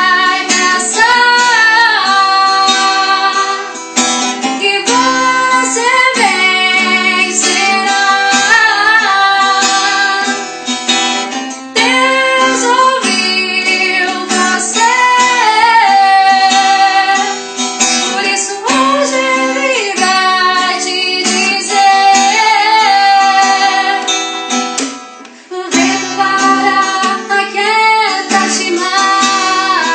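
A woman singing a hymn with vibrato, accompanying herself on a strummed acoustic guitar, with brief pauses between phrases.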